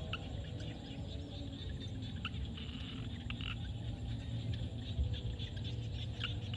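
Frog chorus: many short, scattered calls over a steady low drone.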